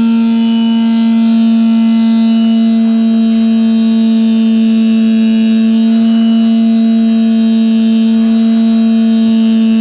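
Pump running steadily while pumping out a grease trap, a loud, unchanging hum with overtones.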